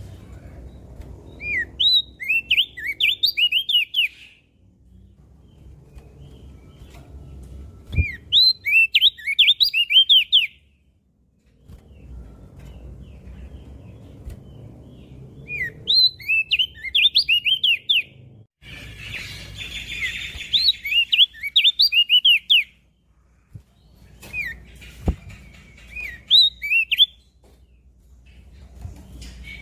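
Crested white-eye (opior jambul) singing: phrases of rapid, quick-sweeping chirped notes, each phrase two to three seconds long, repeated about five times with short pauses between.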